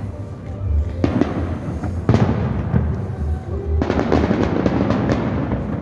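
Fireworks salute: sharp shell bursts about a second apart with deep rolling booms, then a denser run of crackling reports near the end.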